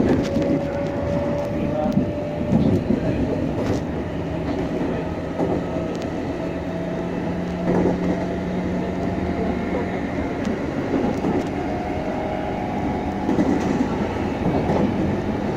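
Meitetsu 6500-series electric train running, heard from inside the passenger car: steady rolling noise of wheels on rail with a low hum and a faint higher whine from the running gear. Occasional clicks of wheels over rail joints.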